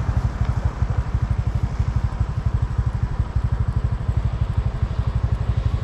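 Small engine idling steadily, an even rapid low throb.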